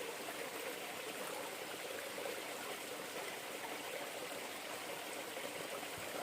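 River water flowing in a steady rushing wash.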